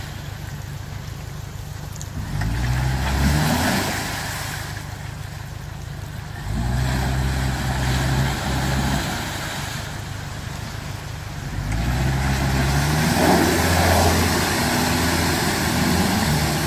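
Jeep engine revving in three surges, its pitch stepping up and the level swelling each time, as the Jeep takes a run at an obstacle on the trail after backing up for speed.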